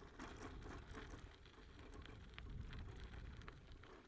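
Faint rustling and scattered light taps over a low rumble: handling of food packages.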